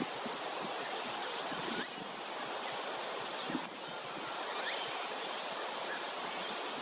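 Steady rushing background noise, with a few faint, short rising bird notes over it.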